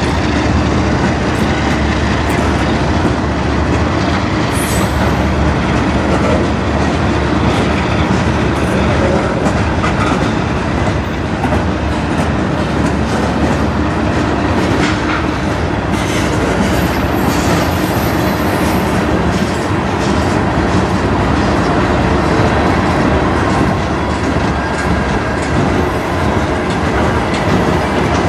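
Freight train tank cars rolling past close by: a steady, loud rumble with the clickety-clack of wheels over rail joints, and faint high wheel squeals now and then.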